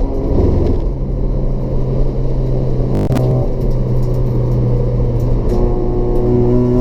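Race-prepared Toyota Etios's 1.5-litre petrol engine with a free-flow exhaust running steadily under load. There is a short click about three seconds in, and the engine note climbs steadily near the end as the car accelerates.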